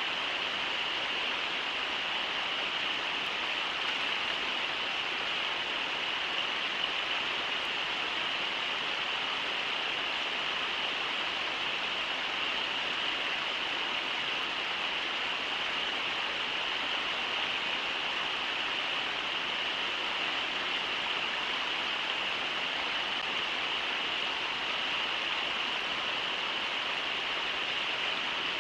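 The Brooks River rushing steadily over rapids, an even, unbroken roar of water picked up by the livecam's outdoor microphone.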